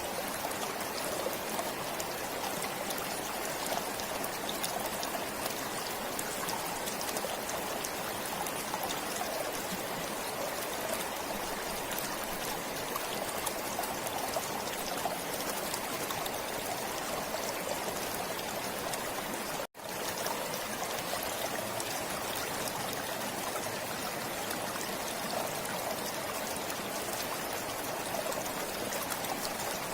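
Forest stream flowing steadily. The sound cuts out for a split second about two-thirds of the way through, then carries on unchanged.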